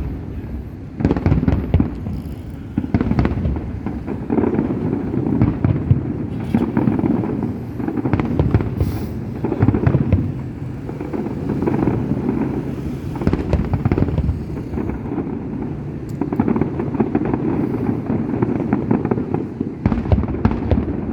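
Fireworks display going off continuously: a dense run of sharp bangs and pops over a steady low rumble of booming shells.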